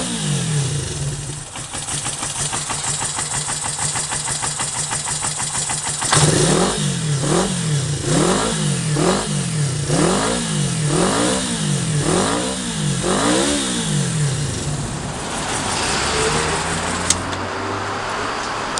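Kawasaki Z250FT's air-cooled parallel-twin engine, through a new collector exhaust, idling, then blipped hard about once a second for some eight seconds, each rev climbing and falling back, before settling to idle again. A single sharp click near the end.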